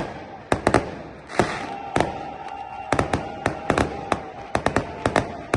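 Fireworks going off in a rapid, irregular string of sharp bangs, about four a second, each cracking out with a short echo. A faint steady whistle sounds under the bangs for about two seconds mid-way.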